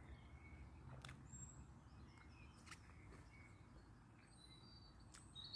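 Near silence: faint room tone with a few short, faint high chirps and three faint clicks.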